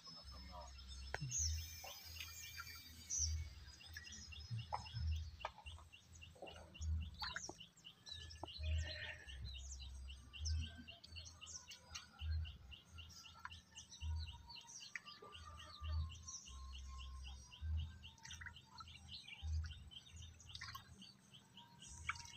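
Faint outdoor birdsong: scattered high chirps, then a long run of fast, evenly repeated short high notes. Under it, dull low thumps about every two seconds.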